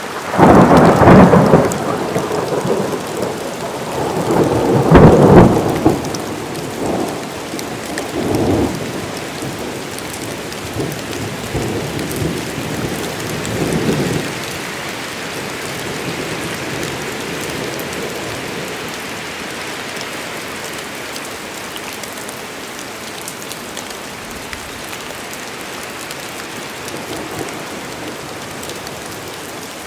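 A thunderclap breaks suddenly about half a second in and rolls on, peaking again around five seconds and fading in smaller rumbles by about fourteen seconds. Steady heavy rain falls throughout.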